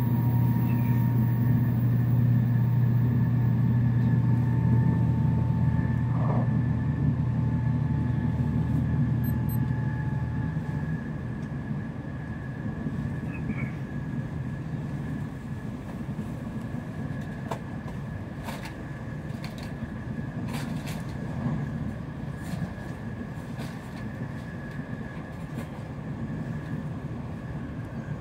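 Running noise of an N700S Shinkansen heard inside the passenger car: a steady low rumble with a faint high tone that drifts slightly down, the whole sound growing quieter about ten seconds in. A few light clicks come in the second half.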